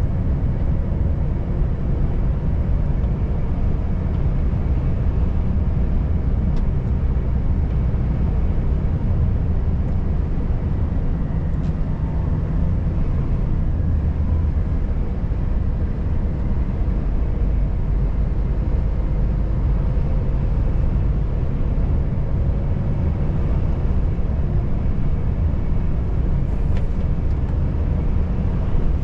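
Volvo FH540 truck on the move, its 13-litre six-cylinder diesel running at a steady pace under a continuous low drone of engine and road noise.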